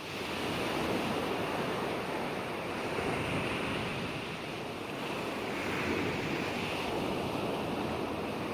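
Ocean waves breaking and washing on a shore: a steady rushing surf that swells up in the first second and then surges and eases slowly, easing a little near the end.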